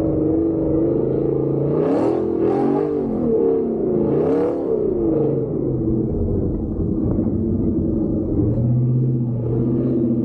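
Gen 1 Ford Raptor's V8 engine running hard under load, its pitch swinging up and down, with surges about two and four and a half seconds in.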